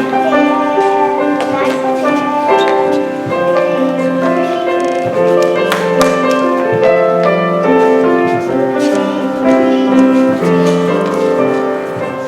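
Live piano music: a melody of held notes moving step by step over a lower accompaniment.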